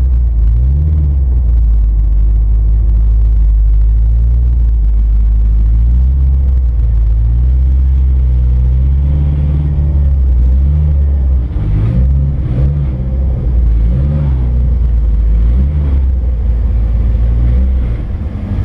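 Twin-turbo Subaru WRX's flat-four engine and exhaust running under way, a deep rumble whose pitch rises and falls several times as the revs change, with a few brief drops in loudness in the second half.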